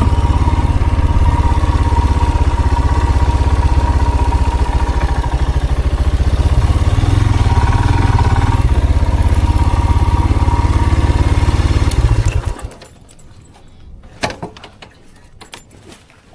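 A vehicle engine idles with a steady, pulsing low rumble, then is switched off about twelve seconds in and stops abruptly. A few sharp clicks and rattles follow.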